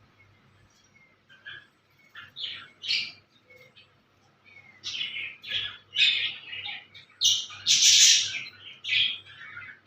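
Birds chirping and calling in short high bursts, sparse at first and then coming thick and loud in the second half, with the loudest, longest call about eight seconds in.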